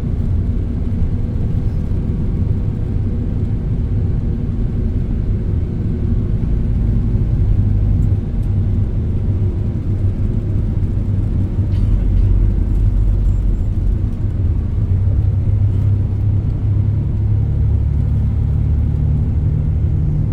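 Steady low rumble of a vehicle in motion, engine and road noise running continuously.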